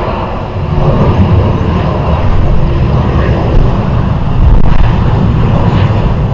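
Jet airliner engine noise: a loud, steady low rumble.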